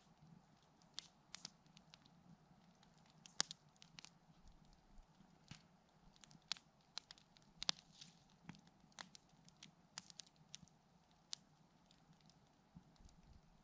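Campfire crackling quietly: sparse, irregular snaps and pops of burning wood, a few every second.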